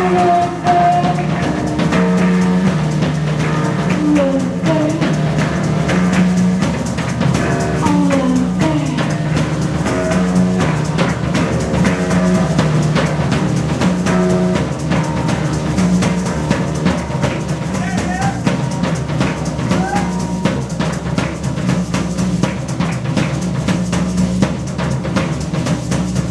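Live band playing an instrumental passage: a drum kit keeping a steady beat under a repeating low riff, with sliding pitched notes over it and no singing.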